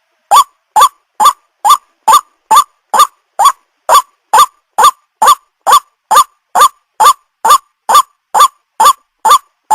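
White-breasted waterhen (ruak-ruak) calling: a short, pitched note repeated evenly a little more than twice a second, starting about half a second in.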